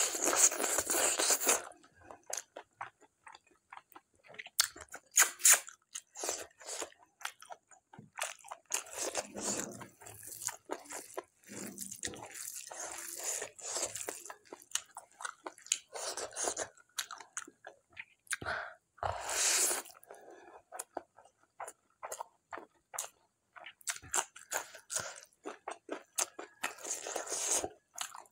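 A person chewing and crunching mouthfuls of a mutton curry meal eaten by hand, close to the microphone, in irregular bites with a few louder crunching bursts, the loudest near the start.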